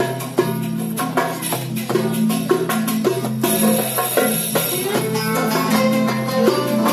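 Live Turkish classical music ensemble playing the instrumental introduction of a song, pitched instruments over a steady rhythm of struck percussion.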